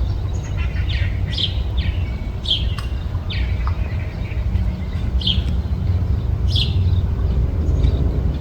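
Small birds giving short, sharp chirps, about eight of them, irregularly spaced with a pause in the middle, over a steady low rumble.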